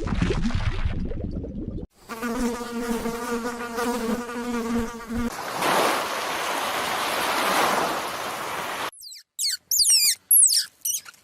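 A string of short animal-sound clips. In the middle an insect buzzes on one steady pitch for about three seconds, then comes a stretch of hissing noise, and near the end a bird gives quick chirps.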